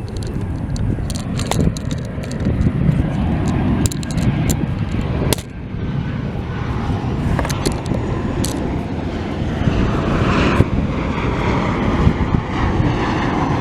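5-inch FPV racing quadcopter (iFlight Cidora SL5-E) flying, its motors and propellers buzzing as the pitch rises and falls with the throttle.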